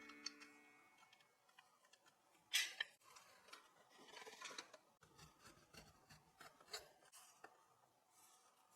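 Faint close-up handling sounds: scattered light clicks and taps with soft rubbing, and one sharper scrape about two and a half seconds in.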